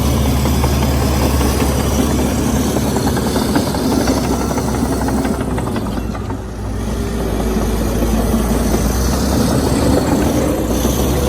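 Heavy diesel engine of a Komatsu D61EX crawler bulldozer running steadily under work, easing briefly about midway before picking up again.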